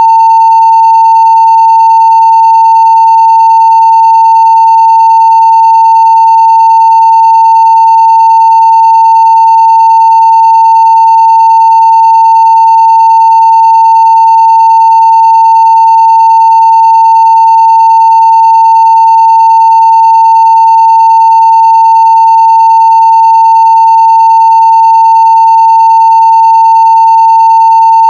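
A 900 Hz sine test tone at full scale (0 dB), loud and perfectly steady, with faint higher overtones.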